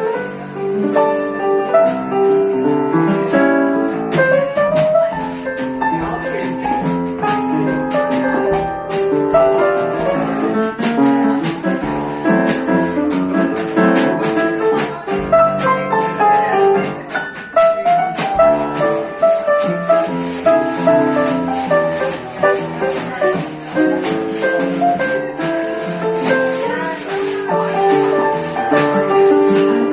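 Live jazz band playing, the piano carrying chords and melody over a shaker keeping a steady, fast rhythm.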